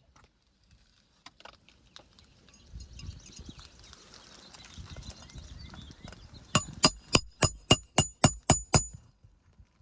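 Rapid run of about ten sharp, ringing strikes, three to four a second, from nails being driven through asphalt shingles on a roof repair. Before it, low scuffing and rustling of shingles being handled and set in place.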